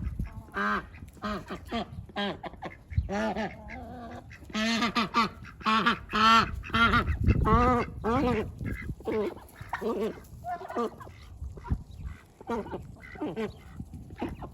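Domestic ducks quacking: a run of short, repeated honking calls, busiest from about four to eight seconds in.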